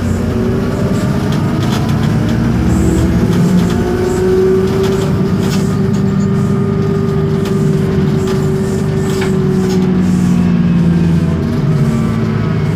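Isobus City 1200 city bus under way: its MAN D0836 LOH diesel engine running with a steady drivetrain whine from the ZF Ecomat 6HP504C automatic gearbox and differential. The whine rises in pitch over the first few seconds, holds, and fades about ten seconds in.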